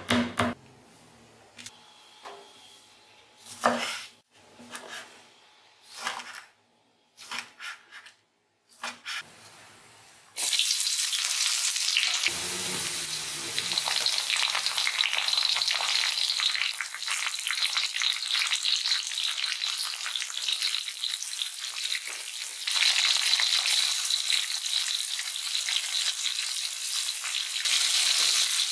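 A knife chops on a wooden cutting board in a few scattered knocks. From about ten seconds in, oil sizzles steadily as sliced shallots, garlic and lemongrass fry in a stone-coated wok. The sizzle steps up louder twice later on as more ingredients go in.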